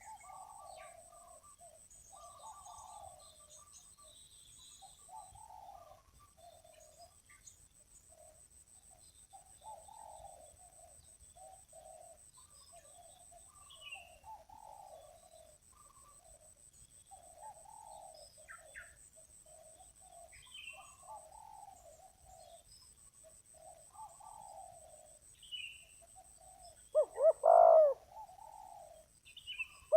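Spotted doves cooing: repeated faint rolling coo phrases throughout, with one much louder, closer coo phrase near the end.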